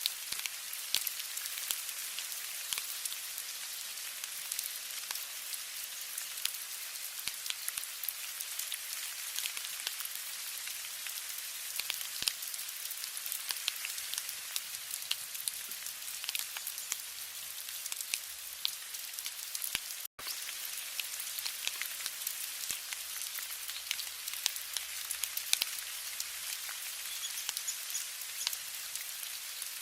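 Steady rain falling, a continuous hiss dotted with many separate drop ticks. The sound cuts out for an instant about two-thirds of the way through.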